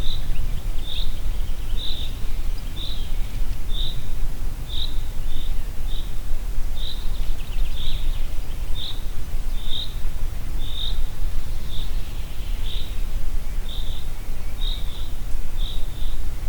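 Wind rumbling steadily, with a bird repeating a short high chirp about once a second, now and then as a quick double note.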